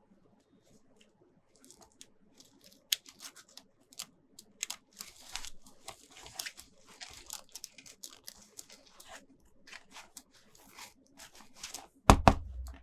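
Toy packaging being torn open and crinkled by hand, a run of crackles and rips, with a louder knock just before the end.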